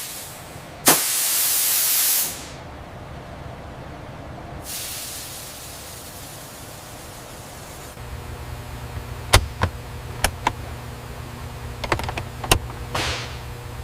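A loud hiss of air about a second in, lasting about a second and a half. It is followed by a steady low workshop hum with scattered sharp metallic clicks and knocks.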